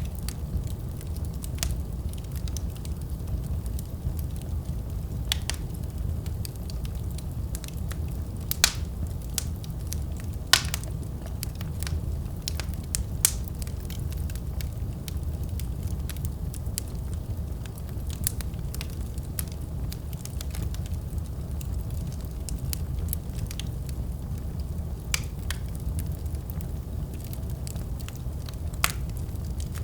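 Wood fire crackling: a steady low rumble of flames with irregular sharp pops and snaps, a few louder ones scattered through.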